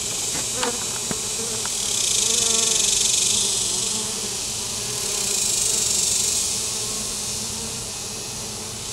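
Honeybees buzzing steadily in large numbers, the buzz swelling twice and easing off again.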